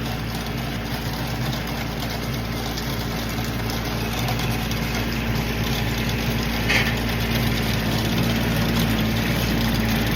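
Tractor engine running steadily at an even speed while the manure spreader is being emptied, growing slightly louder toward the end.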